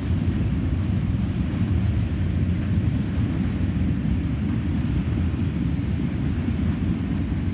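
A long mixed freight train of box cars, lumber cars, tank cars and gondolas rolling past: a steady, low noise of steel wheels on the rails with no locomotive near.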